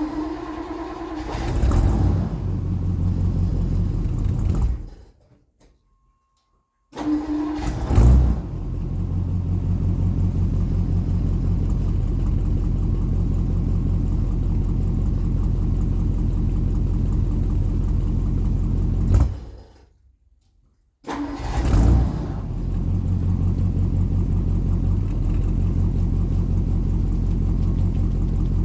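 1960 Ford Galaxie Starliner's 292 Y-block V8, straight-piped with a glass-pack muffler, cold-started: the starter cranks briefly, the engine catches with a short flare of revs and settles into a steady idle. It cuts out twice, about five seconds in and near twenty seconds, and is started again each time.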